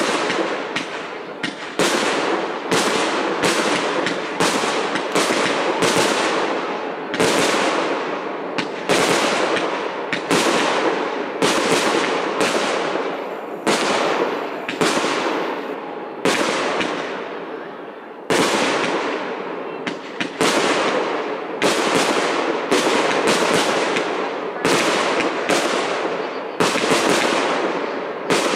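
Aerial fireworks shells bursting in rapid succession, about one to two booms a second, each trailing off in a rolling echo.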